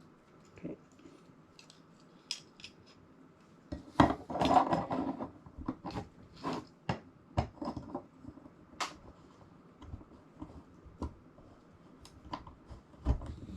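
Irregular clicks, knocks and clinks of small metal brackets, bolts and tools being handled during hand assembly, busiest about four seconds in.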